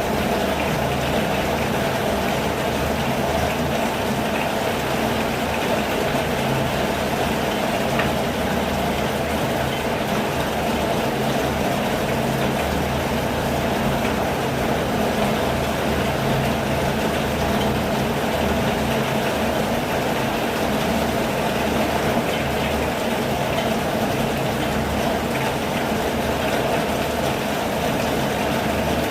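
Steady rain falling, an even unbroken wash of noise with a low rumble beneath it.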